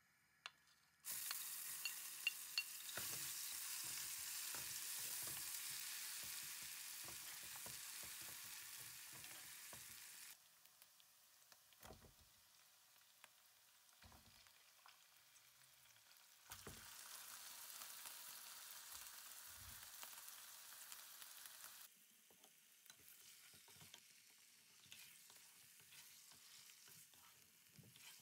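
Hot oil sizzles loudly as onion paste goes into a karahi about a second in, and the sizzle slowly dies down. Later, chicken pieces sizzle in the oil again while a wooden spoon knocks and scrapes against the pan as they are stirred.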